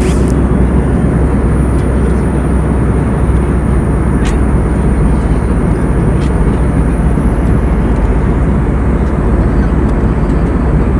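Steady noise of an airliner's cabin in flight, engines and rushing air blended into an even low rumble, with a thin constant high whine and a few faint clicks.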